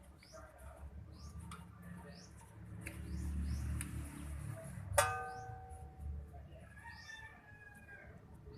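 Small birds chirping over and over in short high calls. About five seconds in comes a single sharp metallic clang that rings on briefly, as a metal tool or part strikes metal.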